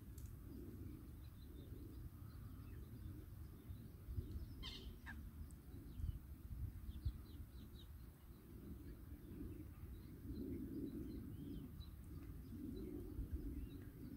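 Faint, scattered bird chirps over a low, steady background rumble of outdoor ambience.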